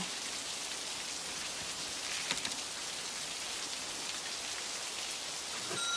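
Steady rain falling, with a few sharper drips about two seconds in.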